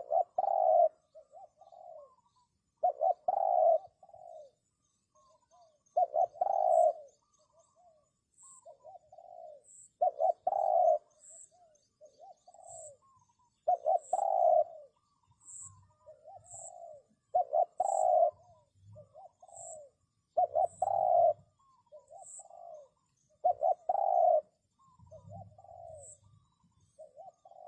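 Spotted dove cooing: a loud coo phrase repeats about every three to four seconds, with softer coos in between. Faint, high, short chirps from a small bird come in about a third of the way through and repeat every second or two.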